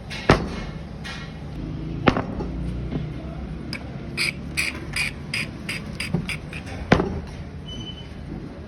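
Work on metal: three sharp knocks, with a quick run of lighter, ringing metallic taps of about four a second between the second and third.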